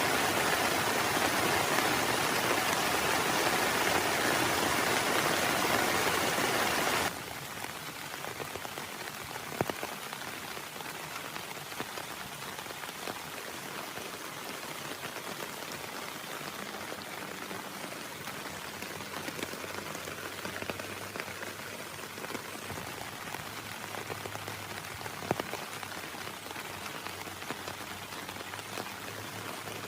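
Heavy rain falling in a dense, steady hiss that drops abruptly about a quarter of the way in to lighter rain, with individual drops ticking and the odd sharper drip.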